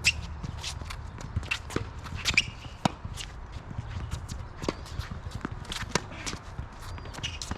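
Footsteps scuffing and shoes squeaking on a tennis court, amid a run of sharp knocks from tennis ball bounces and racket strikes.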